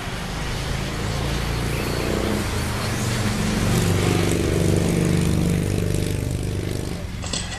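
A motor running with a steady low hum that grows louder in the middle and eases off near the end.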